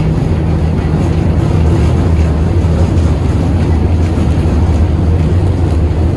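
KTM-8KM tram running between stops: a steady, loud low rumble from the wheels on the rails and the running gear, with no sharp knocks or changes.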